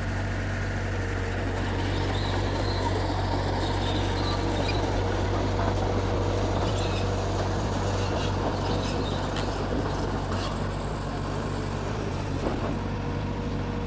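Mitsubishi G2 bulldozer's diesel engine running steadily with an even, unchanging hum.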